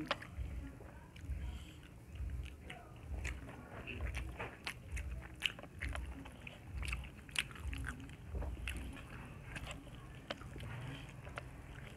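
Close-miked eating: two people chewing mouthfuls of pork and rice at a steady rhythm, with scattered sharp wet clicks and smacks of the mouth.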